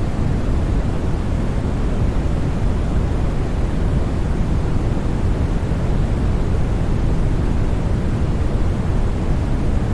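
Steady sleep noise for soothing a baby: an even, unchanging deep rushing sound, heaviest in the bass and soft in the treble, more like pink or brown noise than bright hiss.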